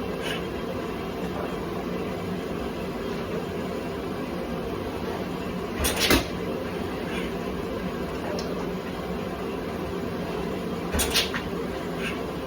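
Two sharp pops about five seconds apart over a steady background hum: start attempts on a 1984 Honda XL600R's single-cylinder engine, which pops and kicks back instead of firing up.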